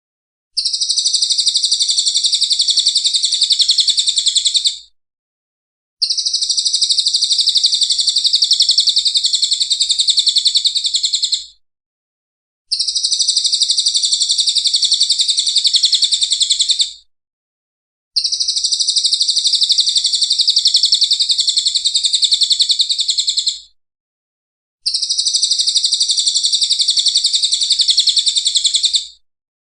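Songbird training recording (masteran) of a very rapid, dense high-pitched trill, played as a loop: five blocks of about four to five seconds each, separated by about a second of silence.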